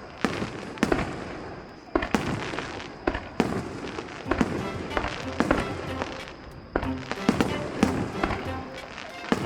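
Aerial fireworks exploding in quick succession, sharp bangs about every half-second to a second, each trailing off in a crackle. Show music plays under the bursts, clearer from about four seconds in.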